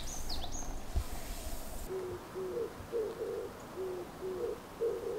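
A bird giving low, soft hoots over and over, roughly twice a second, some in quick pairs. A few high chirps from a small songbird come at the very start.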